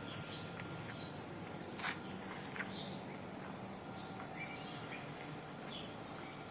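Insects, crickets by their sound, chirring in a steady high drone, with a few faint short chirps over it and a small click about two seconds in.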